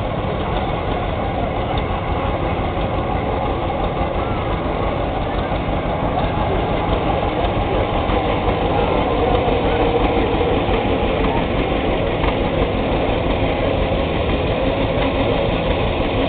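Tractor engines running steadily, a low even rumble.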